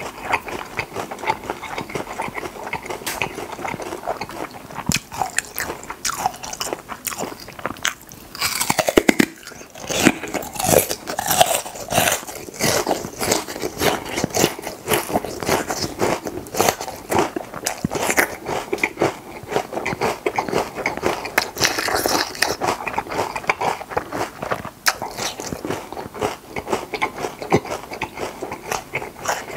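Raw lotus root being bitten and chewed close to the microphone: dense, crisp crunching throughout, loudest about nine to eleven seconds in.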